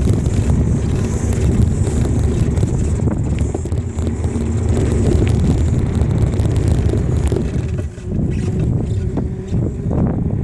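Wind buffeting the microphone of a camera riding along on a moving bicycle: a loud, steady low rumble that dips briefly about eight seconds in.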